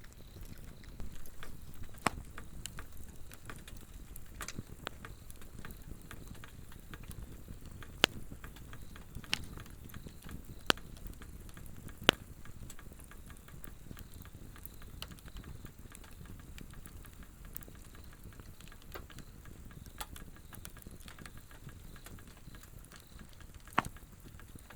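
Swedish torch log fire crackling, with scattered small ticks and a handful of sharp loud pops, the loudest near the middle, over a low steady rustle of flame. Insects call faintly with a thin steady high trill.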